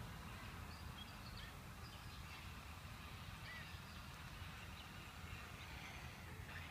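Faint, scattered short bird chirps and calls over a steady low background rumble.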